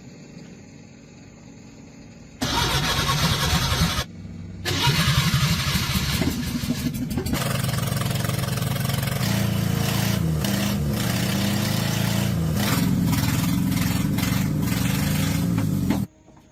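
Repaired truck engine starting, then running steadily. The sound comes in sharply about two seconds in, breaks off briefly a second and a half later, resumes, and cuts off suddenly near the end.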